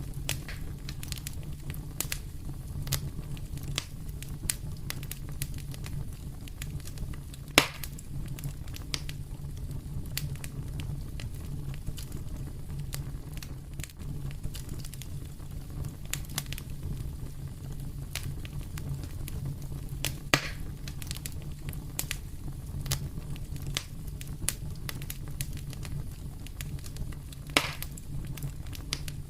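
Wood fire in a fireplace crackling steadily with scattered small snaps over a low rumble, and three sharper, louder pops: one about a third of the way in, one about two-thirds in, and one near the end.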